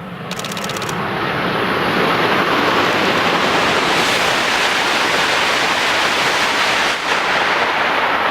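E5 series Shinkansen passing through a station at high speed without stopping: a loud rush of air and wheel noise that swells over the first two seconds, then holds steady as the train goes by.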